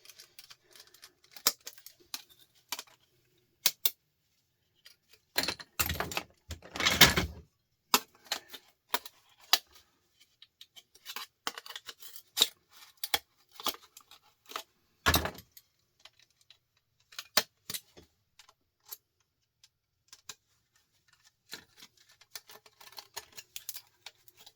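Hand tools clicking and clattering against small metal parts and screws as a small portable DVD drive is taken apart. The clicks are irregular, with a louder bout of clattering about six seconds in and a single sharp knock at about fifteen seconds.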